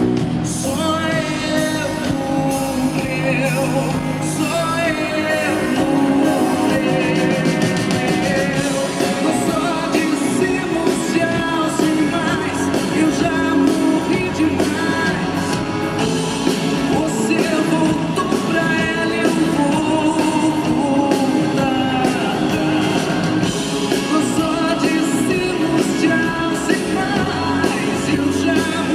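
Live band playing a pop-rock song, with a singing voice over it.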